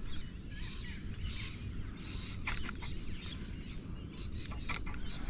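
Birds calling with a repeated high chirp about twice a second, over a steady low rumble of wind or water, with a few sharp clicks.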